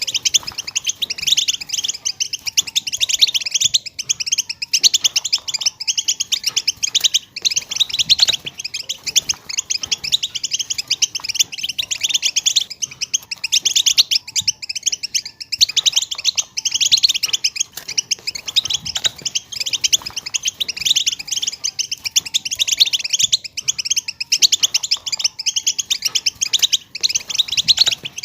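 European goldfinch chattering and twittering without a break: a dense stream of rapid, high, scratchy notes, the 'batbata' chatter played to coax silent goldfinches into song.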